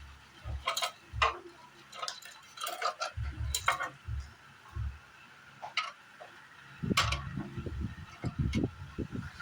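Hands and tools working on an air-conditioner unit: irregular sharp clicks and light knocks, with a denser run of low bumps and rubbing from about seven seconds in.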